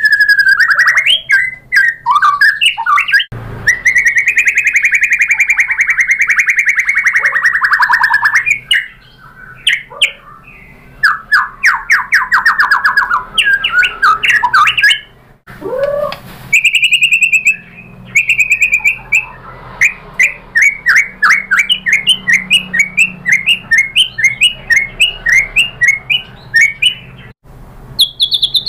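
White-rumped shama (murai batu) singing a loud, varied song of long slurred whistles, fast trills and, in the second half, a long run of quick repeated notes.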